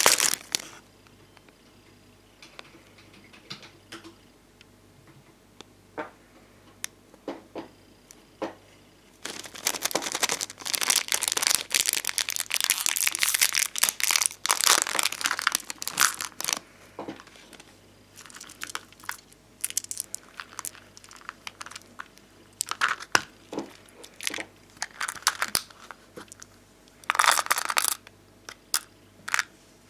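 Bonbon drop stickers (puffy, domed resin stickers) and their plastic sheets handled close up: a long run of crinkling and peeling crackle in the middle, another short burst near the end, and scattered light taps and clicks in between.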